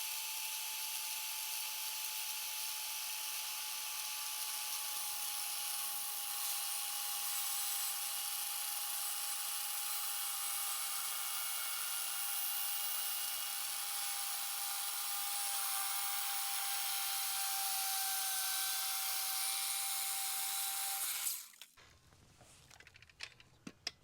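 Electric power saw running steadily through a wooden board, a high motor whine whose pitch sags slightly under load near the end. It shuts off suddenly about 21 seconds in, followed by a few light knocks of wood being handled.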